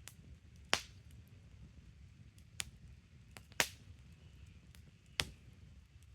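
Wood campfire burning with a low steady rumble and sharp crackles, three loud pops standing out among smaller ticks.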